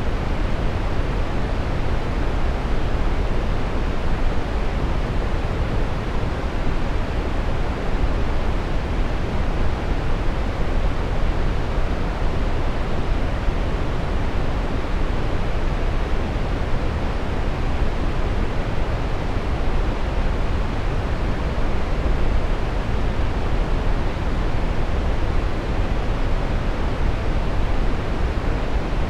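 Steady brown noise: an even, deep rushing hiss, strongest in the bass and fading toward the treble, with no changes.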